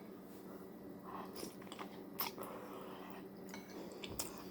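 Faint chewing and mouth sounds of someone eating soup, with a few small scattered clicks, over a low steady hum.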